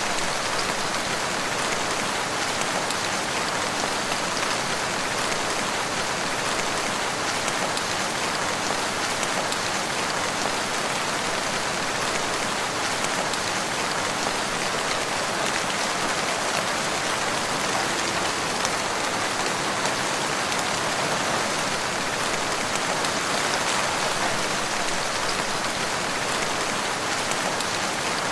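Steady rain falling, an even hiss of countless drops without a break.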